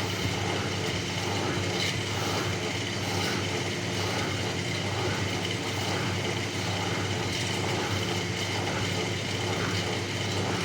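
Bauknecht WAS 1400 washing machine running with a steady motor hum and whir, unchanging in pitch and level.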